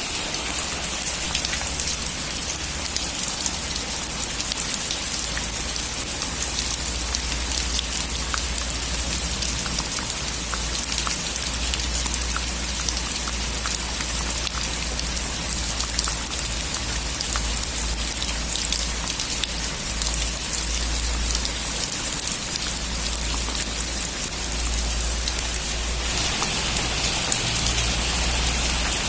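Heavy rain falling on a metal roof: a steady hiss with many small drop ticks, growing a little louder near the end.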